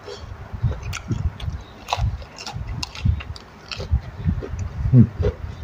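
Close-miked eating: chewing and crunching a mouthful of fresh lettuce with khanom jeen noodles, with wet mouth clicks and smacks in an irregular run. A short vocal sound comes from the eater about five seconds in.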